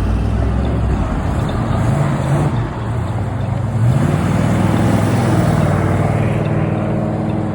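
A classic car's engine running close by, its pitch rising briefly about two seconds in and again about four seconds in as it is revved.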